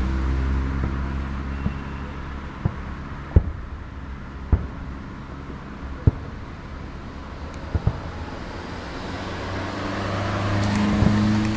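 Scattered sharp bangs of salute fireworks, about seven over six seconds, two of them close together near eight seconds in. Under them a motor vehicle's engine hums; it fades after the first couple of seconds and swells again near the end.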